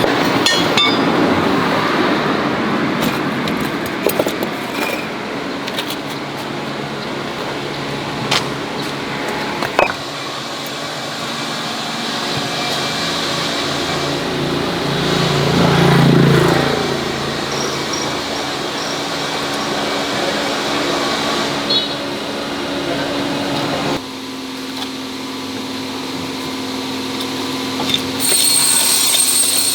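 A vehicle engine running steadily, swelling briefly about halfway through, with a few short metallic knocks early on.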